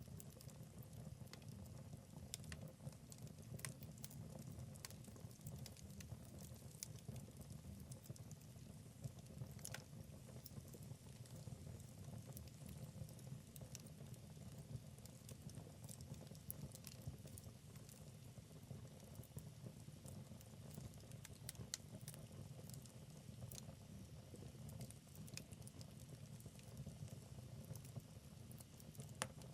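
Wood fire in a fireplace crackling softly: many small irregular pops and snaps over a steady low rumble of burning logs.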